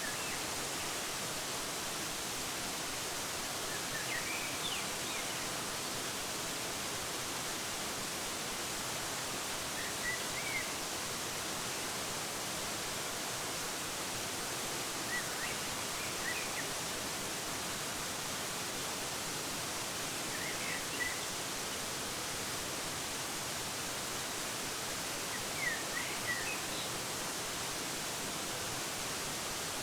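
Waterfall's steady rushing hiss, with short bird chirps coming about every five seconds.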